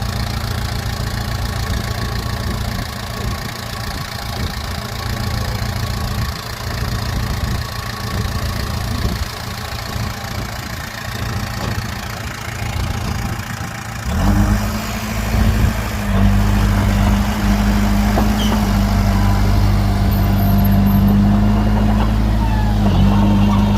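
Heavy diesel engine running at low speed with an uneven rumble; about 14 seconds in it speeds up and holds a steady, louder drone.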